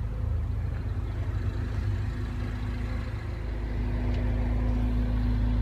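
Steady low rumble and hum of a car engine running at idle, growing slightly louder about three seconds in.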